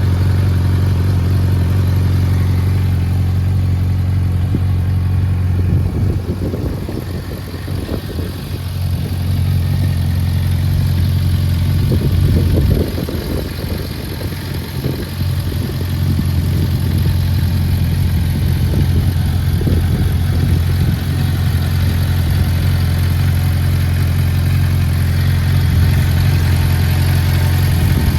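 Suzuki GSF650S Bandit's inline-four engine running steadily at idle through an aftermarket Black Widow exhaust with a dB killer fitted. Twice the sound briefly drops and turns rougher before settling back.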